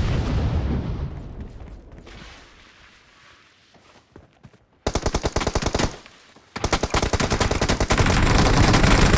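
Video-game gunfire. It opens with a heavy blast whose deep rumble fades over about three seconds. About five seconds in comes a short burst of rapid automatic fire, and another sustained burst starts a second later and runs on.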